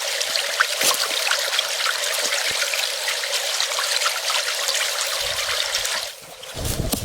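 Water trickling and splashing steadily, with many small drop sounds in it. Near the end it gives way to low thuds.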